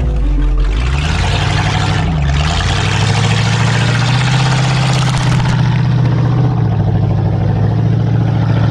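Jon boat's outboard motor running under way, its pitch dipping briefly twice in the first few seconds and then holding steady.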